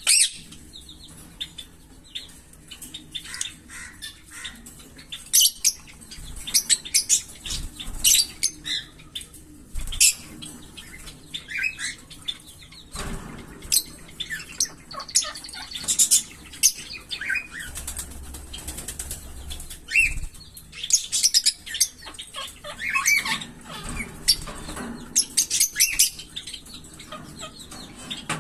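Small pet parrots (lovebirds or budgies) chirping: many short, sharp high-pitched calls coming irregularly, several birds at once.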